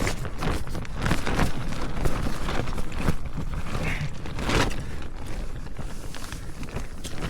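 Strong wind buffeting a nylon bothy bag survival shelter: a steady low rumble with irregular rustling and crackling of the fabric.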